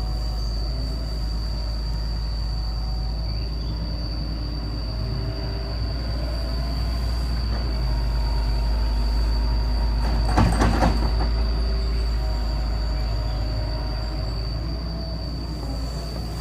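Excavator running and working: a steady engine drone with a constant high whine over it, and a burst of metal clanking about ten seconds in.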